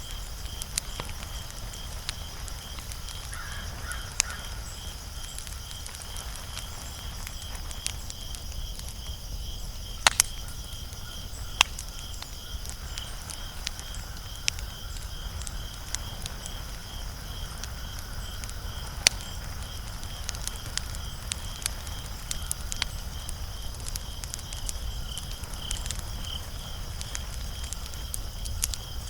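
Wood fire crackling, with scattered sharp pops and snaps over a low steady rumble. The loudest snaps come a little after ten seconds in and again near nineteen seconds.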